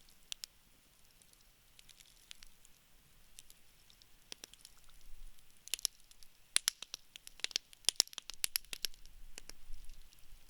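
Wood campfire crackling. Sharp pops and snaps come sparsely at first, then a quick run of crackles in the second half.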